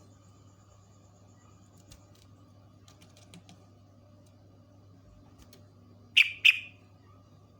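Yellow-vented bulbul (trucuk) giving two loud, short, sharp call notes about a third of a second apart near the end, after a stretch of faint scattered ticks.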